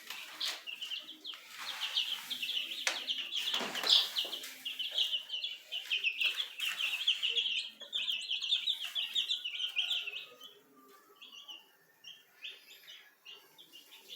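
Baby chicks peeping: a dense chorus of short, high peeps that thins out after about ten seconds, with a few rustling scrapes, the loudest about four seconds in.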